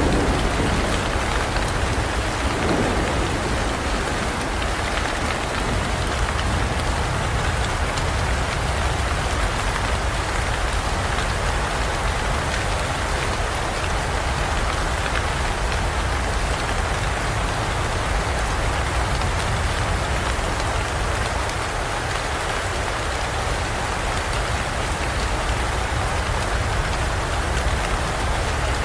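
Steady heavy rain pouring down in a jungle, with a rumble of thunder dying away about three seconds in.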